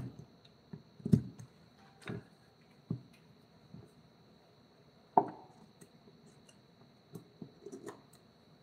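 Irregular knocks and taps, each one short and separate and about a second or more apart, with a cluster of lighter taps near the end. A faint steady high whine runs behind them.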